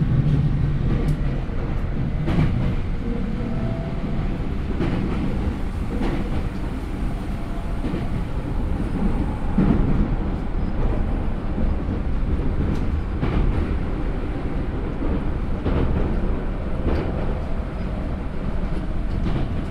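Yokohama Minatomirai Railway Y500 series electric commuter train running, heard from on board: a steady wheel-and-rail rumble with sharp clacks at irregular intervals as the wheels pass rail joints.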